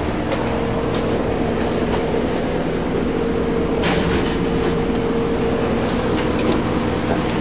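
Bead blasting cabinet at work: a steady rush of compressed air and blast media with a steady hum underneath, and a brief burst of sharper hiss about four seconds in.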